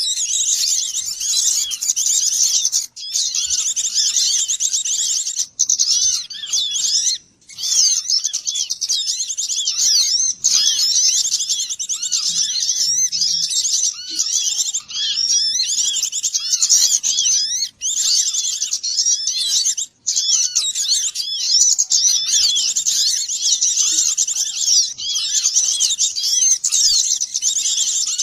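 A dense chorus of many small songbirds chirping and twittering rapidly over one another, a looped lure recording made to draw small birds in for trapping. The chorus cuts out for a split second a few times.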